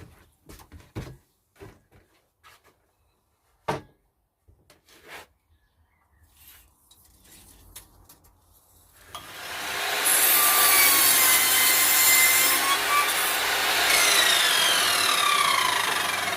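A few light knocks and clicks, then about nine seconds in an electric machine starts up and runs with a loud, steady rushing noise, faint whining tones sliding up and down in pitch.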